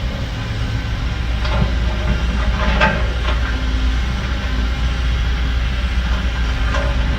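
Heavy diesel construction machinery running steadily, with a few metallic clanks and scrapes, the loudest about three seconds in.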